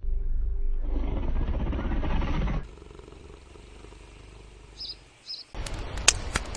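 A big cat growling low and rough for about two and a half seconds. Then two short high chirps, and near the end a steady noisy rush with a few sharp clicks.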